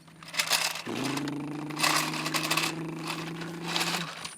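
Toy excavator scraping and crunching through gravel in several rough bursts, with a steady low engine-like hum that starts about a second in and stops shortly before the end.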